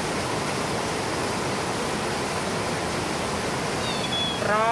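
Heavy rain pouring steadily. Near the end a cat gives one short meow that rises and falls.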